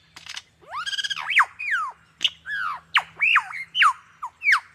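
Lyrebird mimicking the calls of other birds: a quick run of separate pitched whistles that sweep up and then down, with a few sharp clicks between them.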